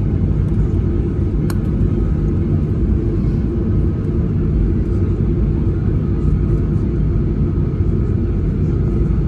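Airliner cabin noise: the steady low rumble of the jet engines and airflow heard from inside the cabin, with a faint steady high tone and a single sharp click about one and a half seconds in.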